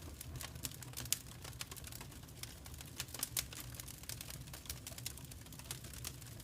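Fireplace fire crackling: irregular sharp pops and snaps over a low steady rumble, with a louder pop about a second in.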